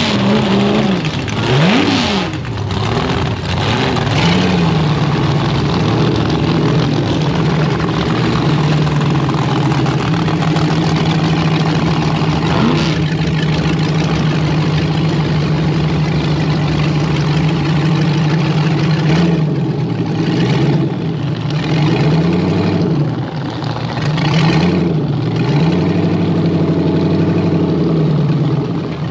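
LS V8 engine in a drag altered race car, running loud. It is blipped up and down at first, then held at a steady pitch for a long stretch, then revved up and down again several times.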